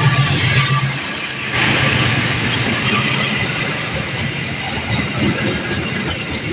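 Train at a railroad level crossing: an engine running with a steady tone that stops within the first second, then a broad rushing noise from about a second and a half in as the train goes by.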